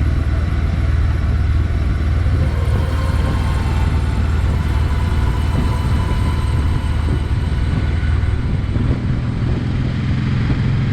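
Honda NT650V Deauville motorcycle's V-twin engine running under way, with road and wind noise; the engine note shifts a little about nine seconds in.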